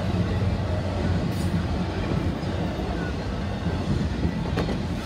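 CSX double-stack container freight train rolling past a grade crossing: a steady low rumble of the railcars on the rails, heard from inside a car's cabin. A single sharp click sounds about four and a half seconds in.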